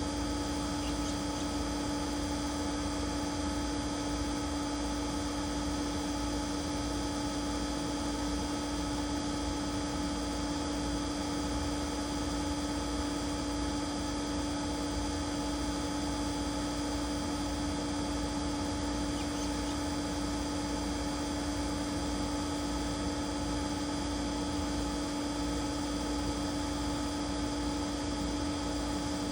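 A steady electrical hum made of several fixed tones, the strongest a low one, with no change over the whole stretch; no bird calls stand out.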